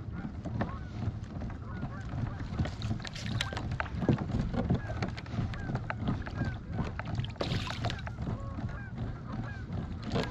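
Boat under way at trolling speed: a steady low engine rumble with water slapping against the hull in scattered sharp ticks. Birds call over it with many short, quick chirps.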